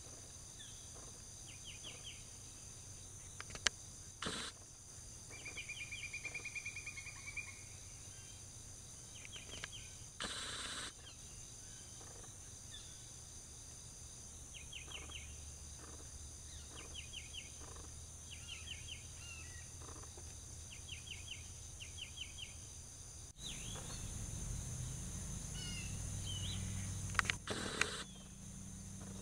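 Faint, regular chirping: short clusters of quick high pulses repeating every second or two over steady background noise. There are a few sharp knocks, and a low hum sets in near the end.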